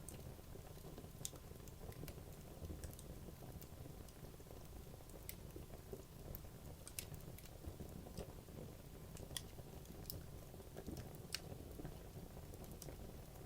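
Wood logs burning in a fireplace: a low, steady rumble of flame with irregular sharp crackles and pops from the burning wood, about one a second, a few louder ones standing out.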